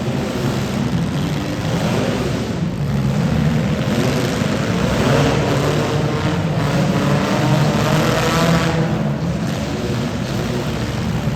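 Demolition derby cars' engines running and revving at once, their pitch rising and falling repeatedly.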